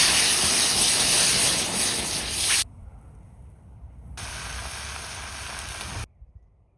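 Two stretches of loud, steady hissing noise, each cutting off suddenly: the first lasts about two and a half seconds, the second about two seconds after a short quieter gap.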